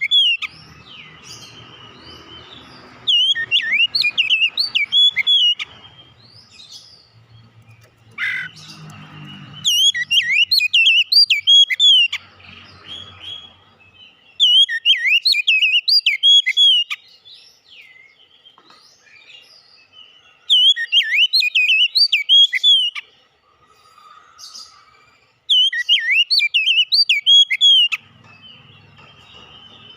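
Oriental magpie-robin (kacer) singing in repeated bursts of rapid, sweeping high whistles, each phrase two to three seconds long with short pauses between.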